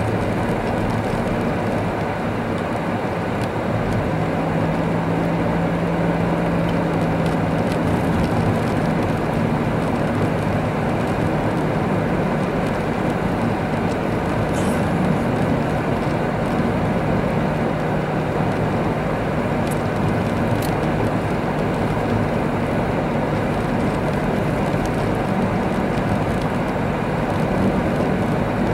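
Car driving on a snow- and ice-covered road, heard from inside the cabin: steady tyre and road noise with a low, steady engine hum.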